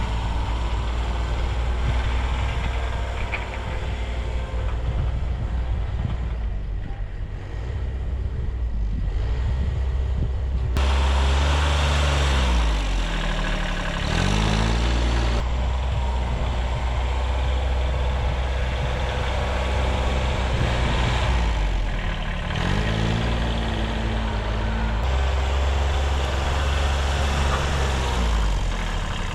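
1978 Kubota B6100 14 HP diesel tractor engine running, its speed rising and falling a few times, with a change about a third of the way in and again near the middle.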